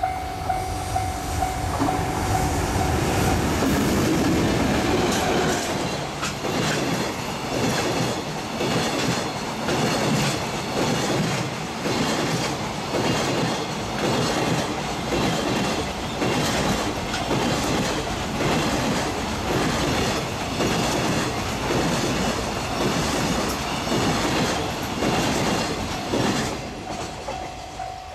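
Train passing over a level crossing, its wheels clattering in a steady rhythm over the rail joints for over twenty seconds. As the train clears near the end, the crossing's warning bell is heard again, ringing with a steady pulse.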